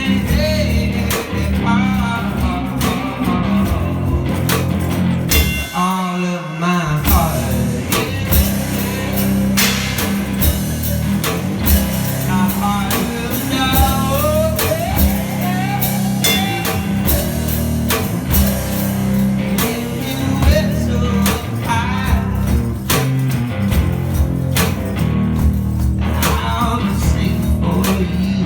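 Live one-man-band song: guitar chords and a drum beat under wavering sung vocals. The low guitar and drum part drops out briefly about six seconds in, then comes back.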